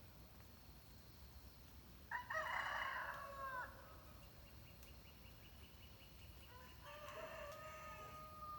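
A rooster crowing once, a loud drawn-out call of about a second and a half that falls at the end, then a second, fainter crow near the end. A faint rapid ticking runs between the two.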